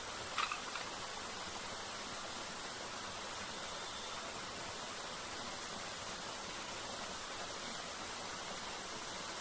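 Steady rushing of a waterfall, an even wash of falling water. A brief sharp sound cuts through it about half a second in.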